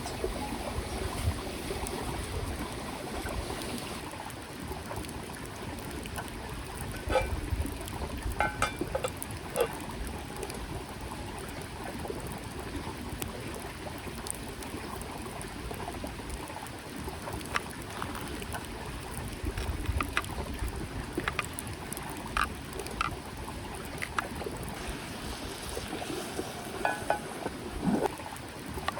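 A small mountain creek flowing steadily, with scattered light clicks and taps over it.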